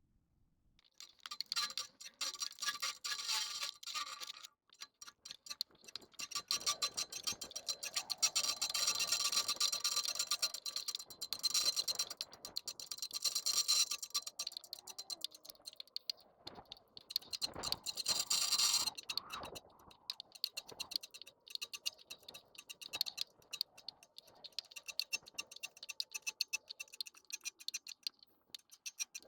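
Bicycle freewheel clicking rapidly while the bike coasts, in long stretches of fast ticking broken by a short pause about five seconds in.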